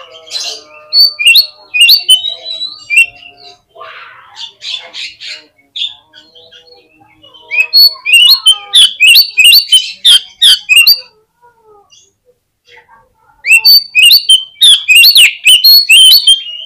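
Oriental magpie-robin singing in three loud runs of quick, sharp, pitch-jumping notes, with fainter calls in the pauses between them.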